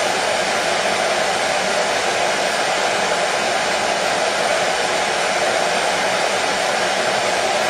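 Hair dryer running steadily: a continuous, even rushing noise of fan and airflow that does not change.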